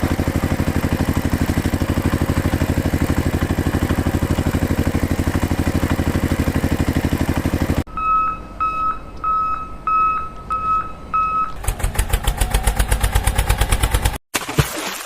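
Truck engine running with a fast, even chugging that stops abruptly about 8 seconds in. A reversing alarm then beeps about seven times, two beeps a second, and the engine chugging starts again and is cut off sharply near the end.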